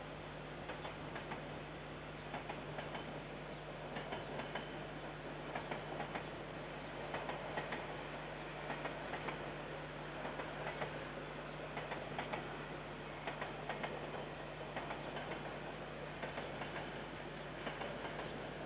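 Container freight train wagons rolling past, steel wheels clicking over rail joints in quick, irregular pairs, over a steady low hum. It is heard through a security camera's microphone, which cuts off the higher sound.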